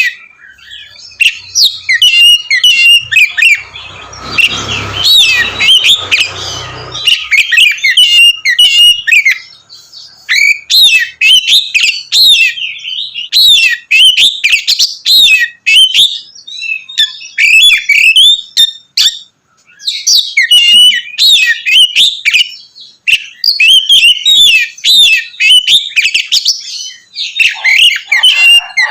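Oriental magpie-robin (kacer) singing loudly and without let-up: a fast, varied run of sharp whistled notes and twittering phrases with only brief pauses. A few seconds of low rustling noise sound under the song about four seconds in.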